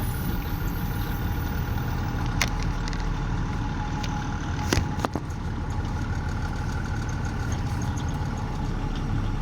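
Heavy truck's diesel engine running steadily, heard from inside the cab, with a few sharp clicks near the middle.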